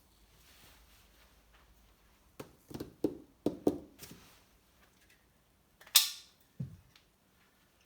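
A run of short knocks and clunks, then one sharp metallic clink about six seconds in and a dull thump just after, as parts or tools are handled on a workbench.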